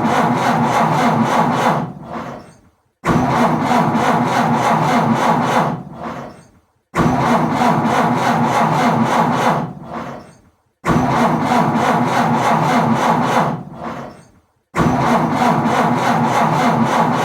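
Car engine cranking on its starter without catching, in repeated tries of about three seconds each, one starting roughly every four seconds: a car struggling and failing to start.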